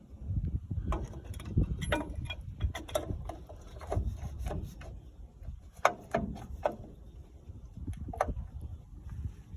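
Irregular metallic clicks and clinks of drum brake parts being handled and fitted: brake shoes, return springs and the star adjuster on a 1989 Dodge Dakota's rear brake backing plate, over a low rumble.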